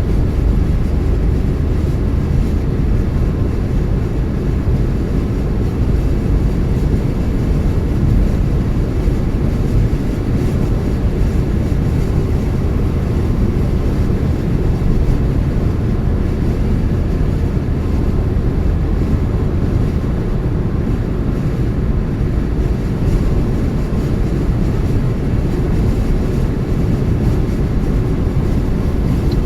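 Steady low rumble of a car driving at speed: tyre, road and engine noise.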